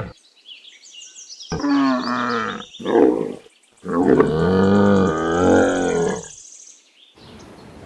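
A camel vocalizing: three low, pitched bellowing calls, two short ones and then a longer one lasting over two seconds.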